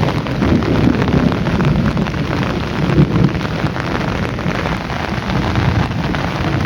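Heavy rain pouring steadily, with a deep rumble underneath and a brief swell about three seconds in.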